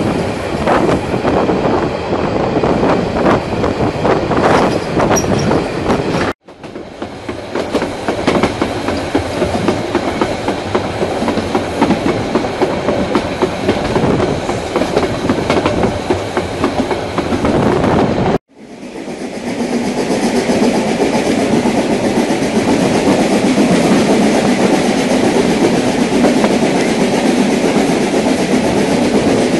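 Metre-gauge steam train heard from aboard a carriage: wheels clicking over rail joints over a steady rumble of the coaches. The sound cuts out abruptly twice and resumes, smoother and steadier in the last stretch.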